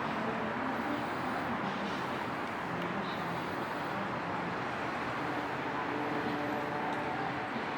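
Steady road-traffic noise, an even, unbroken rush without distinct events.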